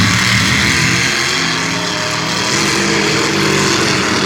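Mud truck's engine running hard, its pitch shifting up and down as it is revved, over a steady hiss.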